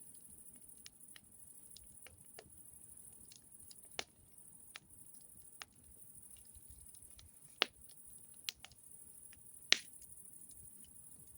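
Campfire wood crackling: scattered sharp pops and snaps at irregular intervals over a steady high hiss, with two louder pops in the second half.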